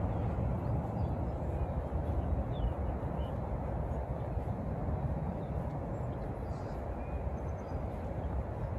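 Steady low rumble that slowly fades, with a few faint bird chirps.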